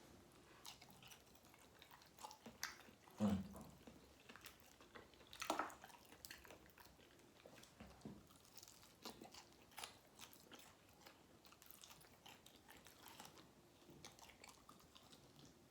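A person chewing and biting saucy chicken wings close to the microphone: quiet, irregular wet chewing broken by sharper clicks, the loudest about three and five and a half seconds in.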